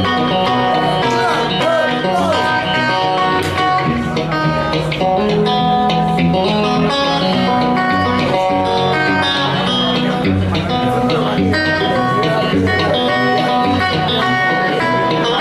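Solo guitar playing a fingerpicked blues tune, with a steady, regular bass beat under the melody notes.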